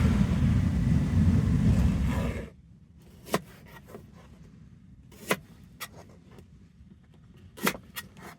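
Strong wind buffeting the microphone in a loud low rumble, which stops abruptly about two and a half seconds in. A handful of short, sharp clicks and knocks follow.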